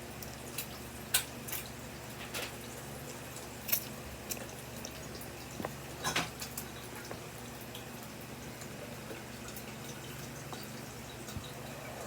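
Wet mouth sounds of someone eating black bean noodles (jjajangmyeon): short smacks and clicks every second or so over a steady low hum.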